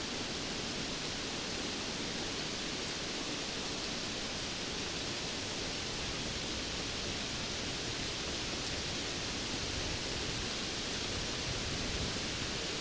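Steady rainfall, an even continuous hiss with no distinct drops, thunder or changes in level.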